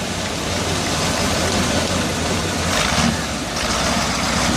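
Competition trial truck's engine running steadily on the course, with a brief rush of noise about three seconds in.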